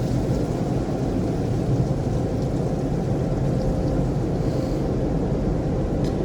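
Automatic car wash heard from inside the car cabin: a steady, muffled low rumble of the wash machinery and water spray on the car body, with a faint steady hum.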